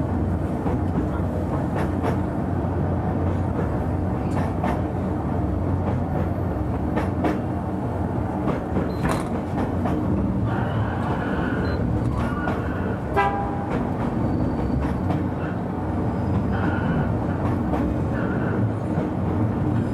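Oigawa Railway Ikawa Line train climbing the 90‰ Abt rack incline, driven by its rack-section electric locomotive. A steady low running hum is broken by scattered clicks of wheels over the track. In the second half come several brief high squeals.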